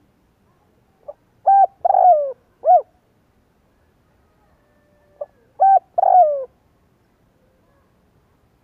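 Spotted dove calling: two cooing phrases about four seconds apart. Each phrase is a few short hooting coos around a longer coo that falls in pitch.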